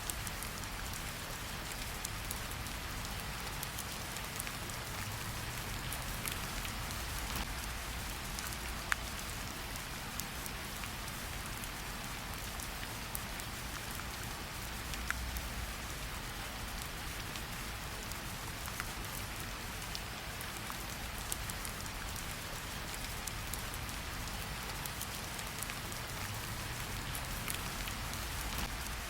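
Steady rain falling, a continuous hiss with scattered sharper drop ticks against a low rumble.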